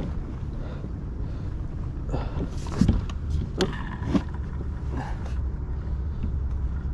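Wind buffeting the microphone as a steady low rumble. A handful of short knocks and clicks sound around the middle as snagged fishing lines are pulled up in a kayak.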